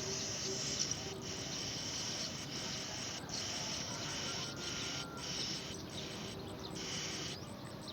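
Insects calling in a continuous high-pitched buzzing chorus, broken by brief pauses every second or so.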